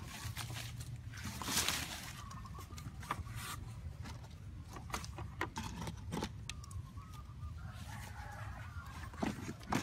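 Birds calling faintly, with wavering chirps that grow clearer near the end, over scattered sharp clicks and rustling from handling nearby.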